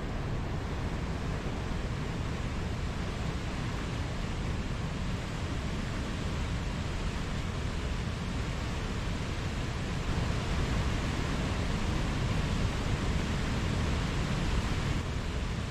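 Mountain stream: water rushing steadily over rocks in an even hiss, slightly louder from about ten seconds in.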